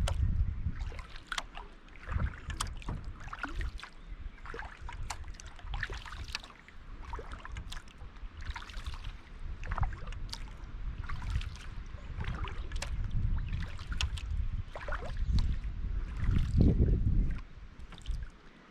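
Kayak paddling: the paddle blades splashing and dripping water with small knocks, over a surging low rumble of wind on the microphone.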